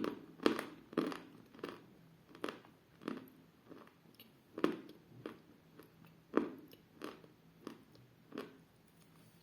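A person chewing dense, dry 'Milky Ice' eating chalk close to the microphone: a string of short, crisp crunches about one and a half a second, the loudest about halfway through, that stop near the end.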